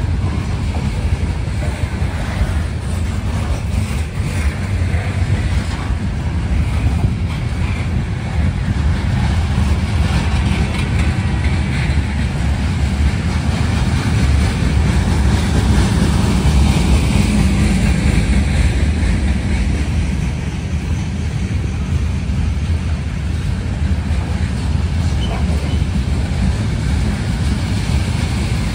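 Freight train cars (covered hoppers and tank cars) rolling past close by, their steel wheels running on the rails in a steady low rumble.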